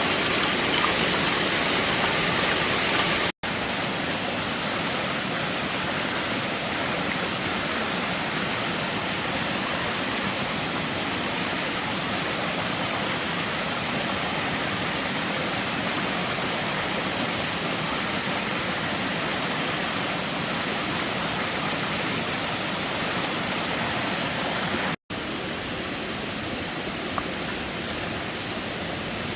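A steady, even rush of water. It breaks off for an instant twice, about three seconds in and near the end, and is a little quieter after each break.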